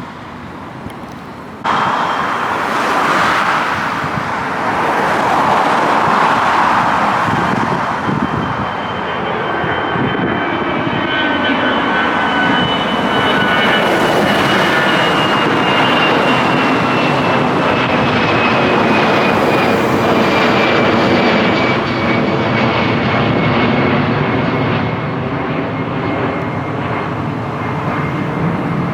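Widebody jet airliner climbing out low overhead after takeoff: loud engine noise that starts suddenly a couple of seconds in, with a thin high whine that falls slowly in pitch as the aircraft passes.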